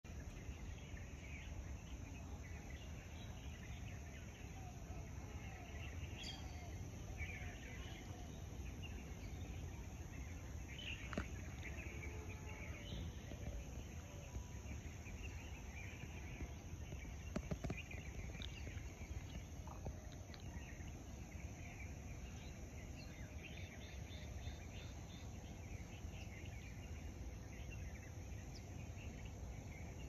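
Many birds chirping in scattered short calls over a steady low background rumble, with a couple of sharp clicks about eleven and seventeen seconds in.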